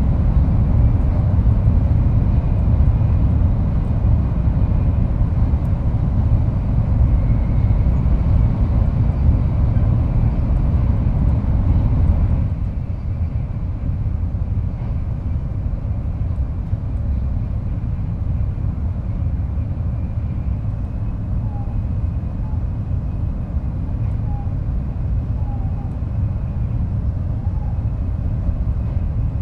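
Kodama Shinkansen train running at speed, heard from inside the car's vestibule: a steady low rumble of wheels and running gear. About twelve seconds in, the noise suddenly drops and becomes duller, then carries on steady.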